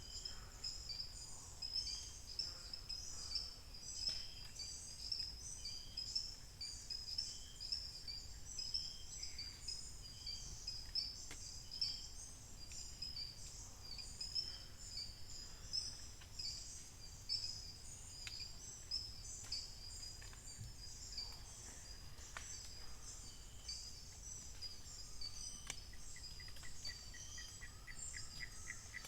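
Dawn forest chorus: dense, high-pitched chirping of birds and insects. A fast trill of clicks comes in near the end.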